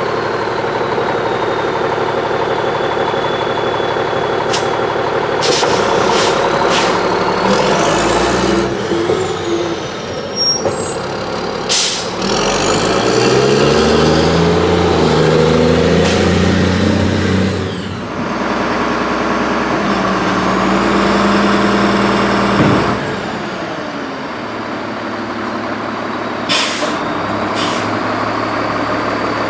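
Freightliner Condor garbage truck's diesel engine running, revving up from about twelve seconds in and dropping back about six seconds later, with several short, sharp air-brake hisses.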